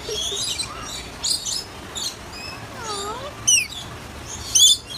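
Short, high-pitched animal chirps and squeaks, some sweeping quickly downward, over a steady low background hum.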